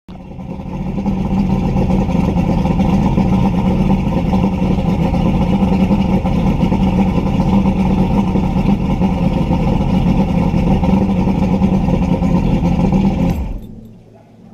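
Boat engine running steadily, swelling up over the first second or two and stopping near the end.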